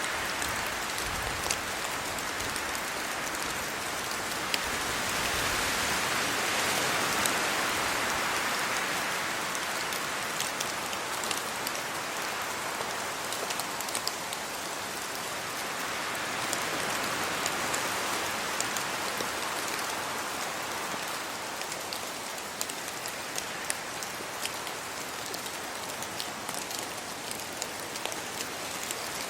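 Steady rain falling on trees, leaves and a road, with many scattered sharp drop ticks close by. It swells twice, about six seconds in and again around sixteen seconds.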